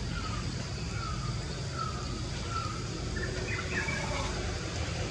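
A bird calling a run of four short falling whistles, evenly spaced a little under a second apart, then a quick burst of chirps about three and a half seconds in, over a steady low rumble.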